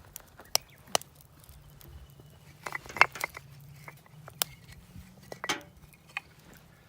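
Scattered sharp clicks and light knocks at irregular intervals, a cluster of them about three seconds in being the loudest, over a faint steady low hum.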